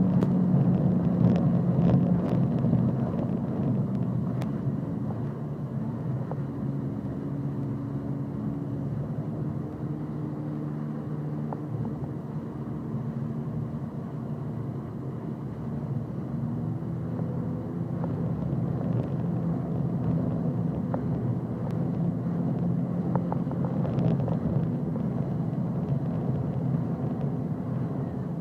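Jet ski engine running steadily with a droning hum, fading over the first few seconds and growing louder again in the second half.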